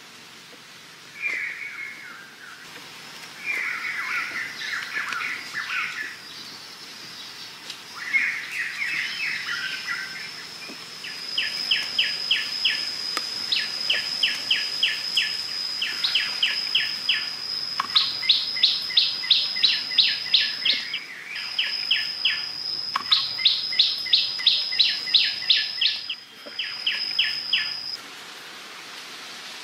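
Birds calling: bursts of irregular chirping, then runs of quick, evenly repeated notes at about four a second over a thin, steady high tone. The calls stop near the end.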